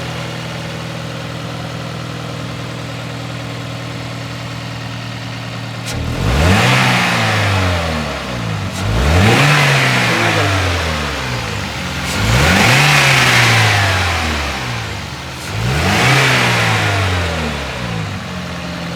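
Toyota GLi car engine, freshly tappet-adjusted, idling steadily, then revved four times, each rev rising and falling back to idle. No tappet clatter is noted: the mechanic calls the engine completely soundless after the valve adjustment.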